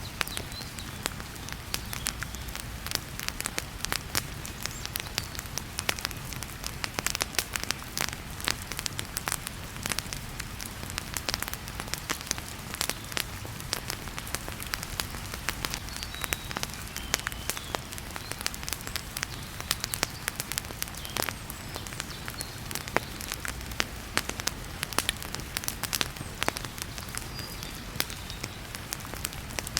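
Wood fire crackling in a fireplace, with frequent sharp pops, over a steady hiss of heavy rain.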